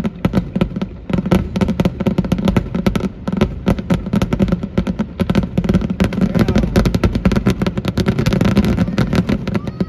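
Fireworks going off in a dense, rapid crackle of many small pops with no break.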